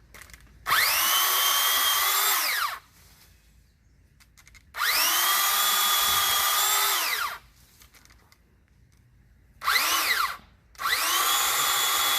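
Pole saw motor run in bursts, whining up to speed, holding steady and winding down. It runs three times for about two to two and a half seconds each, with a short blip just before the last run.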